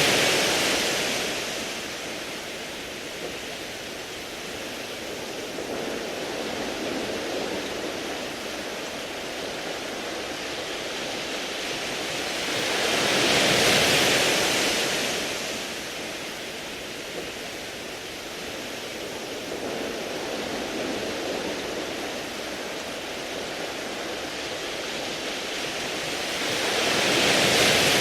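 Sea waves breaking on a beach of smooth round pebbles, swelling loudest three times, about every 14 seconds: at the start, halfway through and near the end, with a steady rushing of water in between.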